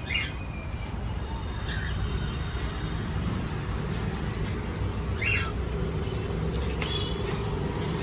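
A few short, scattered calls from caged parrots, about four in all, over a steady low rumble of background noise.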